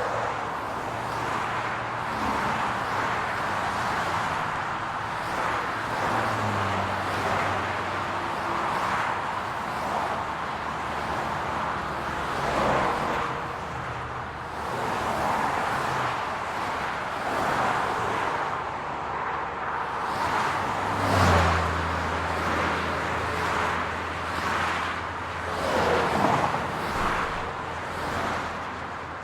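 City road traffic: a steady wash of tyre and road noise with cars' engines humming low, and cars passing by now and then, the loudest about two-thirds of the way through.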